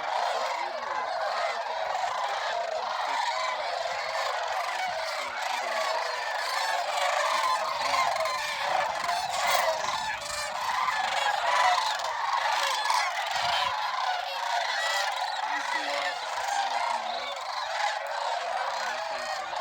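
A large mixed flock of snow geese and sandhill cranes calling: a dense, continuous chorus of overlapping honks with no break.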